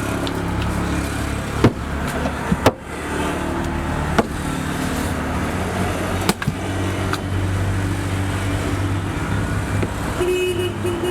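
A steady low engine-like hum, broken by four sharp knocks spread through the first two-thirds.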